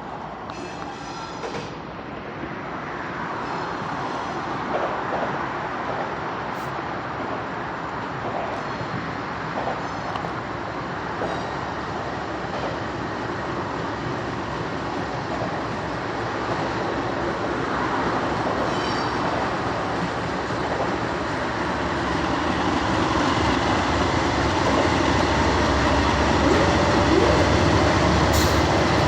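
CSX freight train rolling along the rails with steady wheel-on-rail noise, growing gradually louder. A deep rumble builds near the end.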